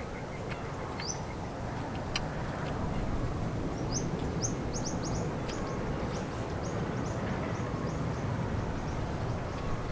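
A small bird calling: a run of short rising chirps, about three a second, over a steady outdoor background hiss. There are a few sharp light clicks in the first couple of seconds.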